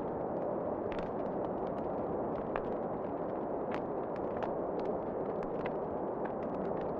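Wood fire crackling in a fireplace: scattered sharp pops and snaps over a steady rushing noise.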